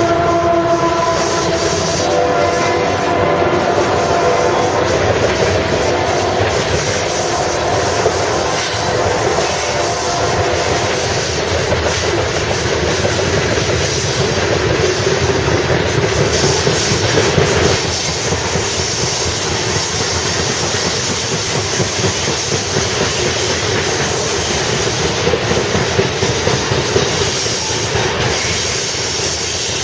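Union Pacific freight train horn sounding for the first few seconds, then fading. Loaded coal cars keep rolling past with a steady rumble and wheel clatter over the rails.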